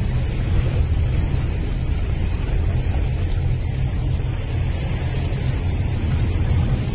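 Steady, loud rumbling noise: a heavy low rumble under an even hiss, with no change in level.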